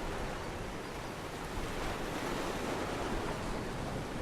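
Steady rushing of sea surf and wind, with no distinct events.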